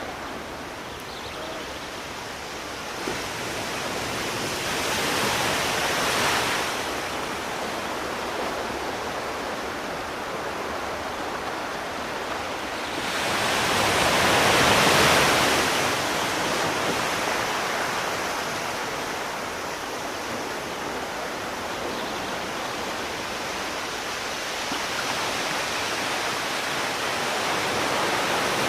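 Sea surf: a steady wash of water with waves surging in twice, briefly about five seconds in and louder about halfway through, and another building near the end.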